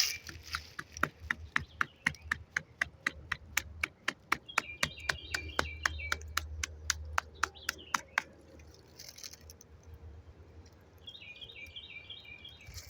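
Rapid, even series of sharp knocks on a tree trunk, about five a second, stopping about eight seconds in. A songbird sings short high trilled phrases twice over it.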